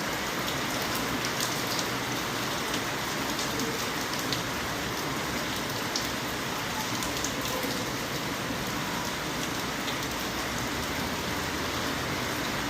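Steady rain falling and pattering on a surface, a constant hiss with many small drop impacts scattered through it.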